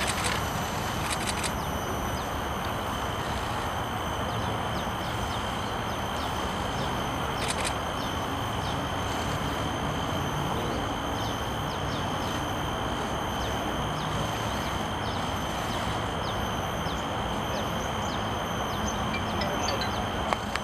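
Steady background hiss with a constant high-pitched whine, no distinct calls standing out.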